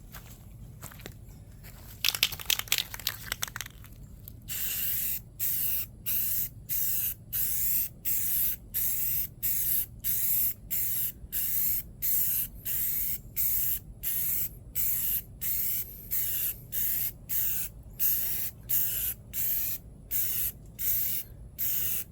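Aerosol can of Rust-Oleum gloss spa blue spray paint spraying in short, regular bursts, about two a second, as a coat goes onto a birdhouse. About two seconds in there is a brief, louder crackling spell before the bursts begin.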